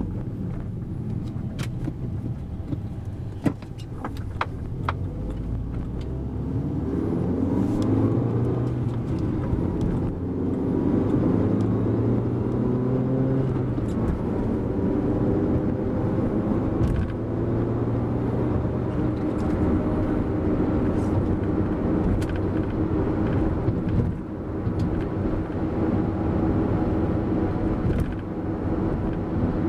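A 2013 Mini John Cooper Works' turbocharged 1.6-litre four-cylinder engine and road noise, heard from inside the cabin while driving. The engine note climbs as the car accelerates and steps down at gear changes, with a few sharp clicks in the first few seconds.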